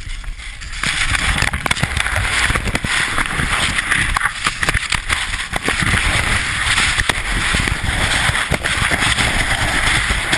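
Loud rushing of snow and wind buffeting a skier's helmet-camera microphone, with scraping crackles; it swells up about a second in and stays dense.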